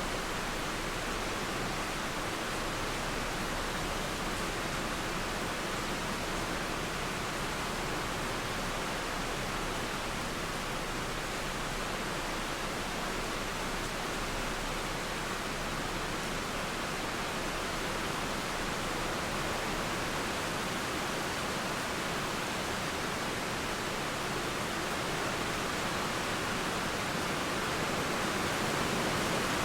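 Steady rain blended with a flowing river, making an even, unbroken hiss.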